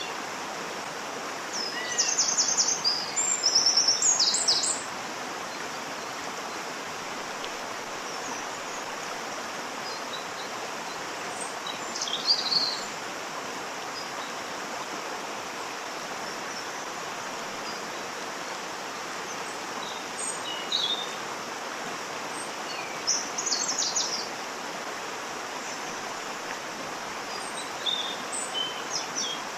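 Waterfall rushing steadily, with birds chirping over it in short bursts: a loud run of calls early on, then further calls about 12 seconds in, around 20 to 24 seconds, and near the end.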